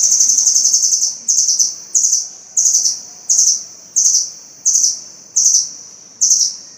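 A small songbird's very high, rapid trill: held unbroken for about a second, then broken into short trilled bursts repeated about every 0.7 seconds, some eight times.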